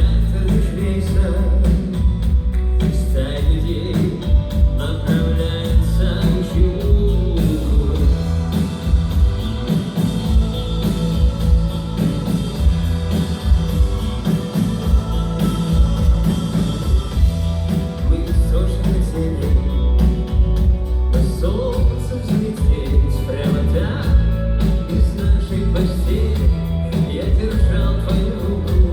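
A rock band playing live with a singer: sung vocal line over guitar, bass and a steady drum beat.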